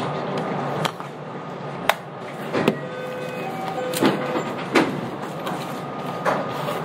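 Interior running noise of a JR West 227-series electric train: a steady rumble broken by about six sharp clicks and knocks at uneven spacing.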